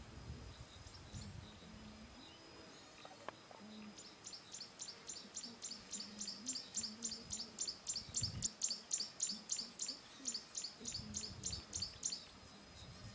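A bird calling a fast, even series of high chirps, about four a second, that starts about four seconds in and stops near the end.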